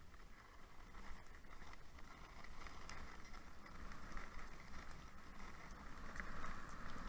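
Steady rushing hiss of a husky sled team travelling over snow, with wind rumbling on the microphone and faint scattered ticks; the hiss grows louder near the end.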